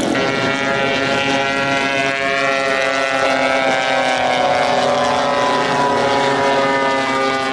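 Giant-scale radio-controlled model airplane's engine and propeller running steadily. The pitch eases slightly lower about three to five seconds in.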